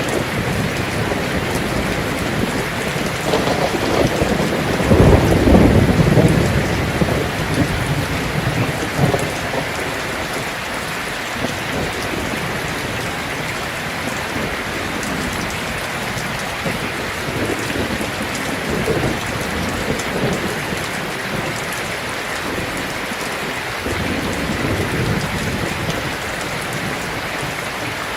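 Heavy rain drumming steadily on a tin roof, with a roll of thunder rumbling about five seconds in and fainter rumbles later.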